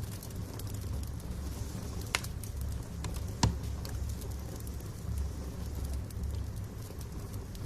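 Wood fire burning in a fireplace: a low steady rumble of the flames with light crackling throughout, and two sharp louder pops from the burning logs about two seconds and three and a half seconds in.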